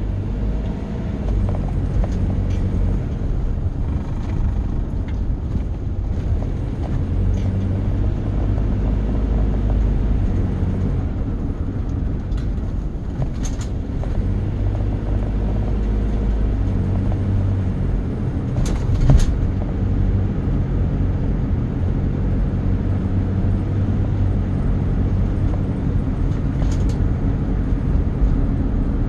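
A vehicle's engine running steadily with a low rumble, its pitch and level shifting a few times. A few sharp clicks or knocks come through, the loudest about two-thirds of the way in.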